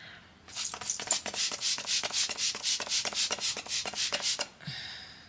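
Quick scratchy rubbing strokes, about seven a second, from makeup being worked onto the face with an applicator, stopping shortly before the end.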